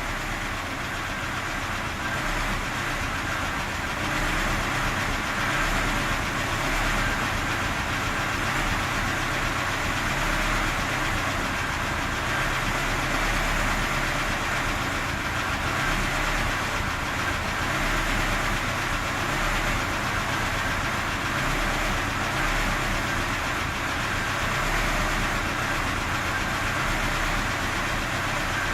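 VAZ-2106 inline-four engine with an Ozon carburettor idling unevenly, its revs rising and falling by themselves in slow swells every few seconds with nobody touching the throttle: an unstable, hunting idle.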